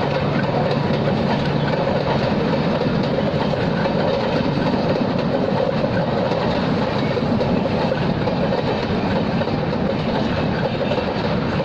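Steady rumble and rail noise of the Madgaon Rajdhani Express's passenger coaches rolling past on the track.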